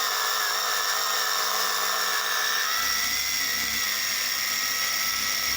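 Small electric slot-car motor whining steadily as it drives two oiled soft rubber slot-car tyres pressed against each other in a tyre conditioner, the sticky tyres dragging on the motor. The whine's pitch rises slightly about halfway through.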